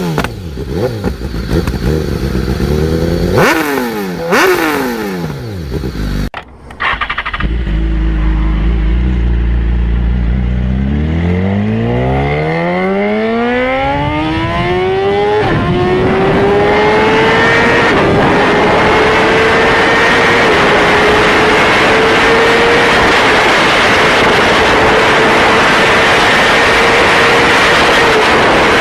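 High-performance motorcycle engine revved in quick blips, then after a sudden cut it idles low before accelerating hard, its pitch climbing and dipping slightly at each upshift, then holding high and steady at speed.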